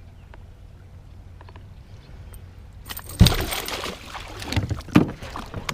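A loud thump about three seconds in, followed by clattering and a few more knocks.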